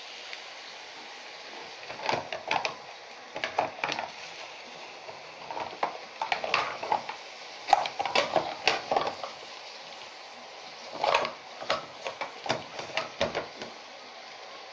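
Mussels sizzling with a steady hiss in a frying pan with butter, tomato and onion, interrupted several times by short bursts of clinking and scraping as they are stirred against the pan.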